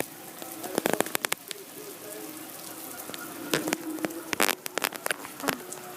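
Steady rain hiss with irregular sharp taps and drips scattered through it, in clusters about a second in and again between three and a half and five and a half seconds in.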